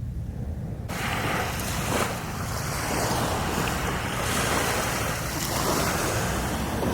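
Sea waves washing onto a beach, with wind rumbling on the microphone. The surf hiss starts suddenly about a second in and swells and eases several times.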